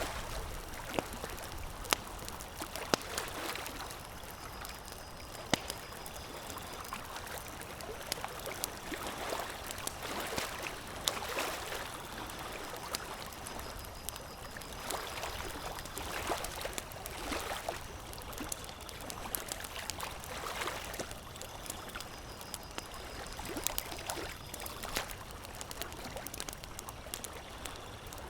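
Campfire crackling, with scattered sharp pops, over a steady wash of flowing or lapping water that swells and eases every second or two.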